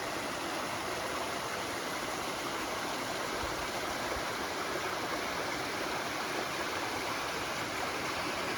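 Water of a stream rushing steadily, an even hiss with no pauses.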